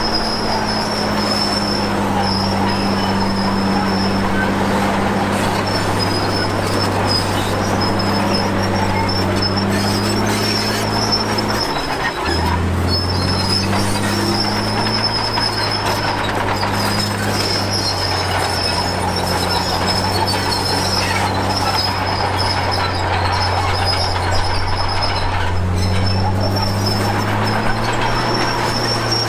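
Komatsu D53P crawler bulldozer working: its diesel engine runs steadily under a continuous high-pitched squeal from the steel tracks. The engine note drops about twelve seconds in and climbs again near the end.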